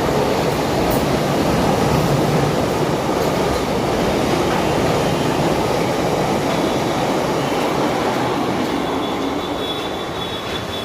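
Goods train wagons running along the rails, a steady loud rumble. A thin, high wheel squeal comes in about two-thirds of the way through, and the rumble eases slightly near the end.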